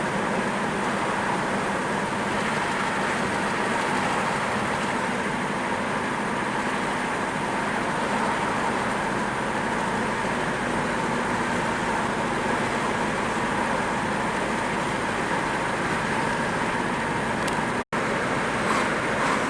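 Steady road and engine noise of a car driving along, with no change in speed. The sound cuts out for an instant near the end.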